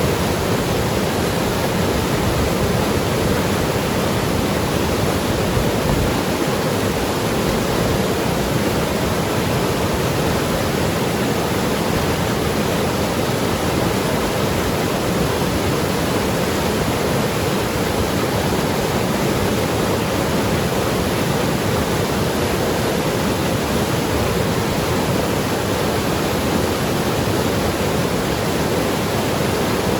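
Mountain river rushing and gurgling over rocks, a steady full rush of water with no breaks.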